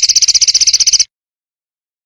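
Songbird giving a fast rattling trill ('besetan'), a rapid run of evenly spaced high, harsh notes, that cuts off abruptly about a second in.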